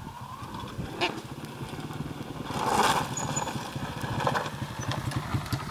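Honda XR100 dirt bike's small single-cylinder four-stroke engine running steadily at low revs.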